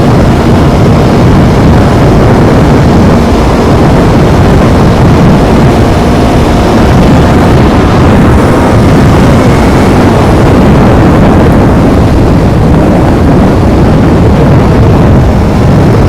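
Yamaha R25's 249 cc parallel-twin engine with its stock exhaust, running steadily and loudly while the bike is ridden, with a dense low rumble.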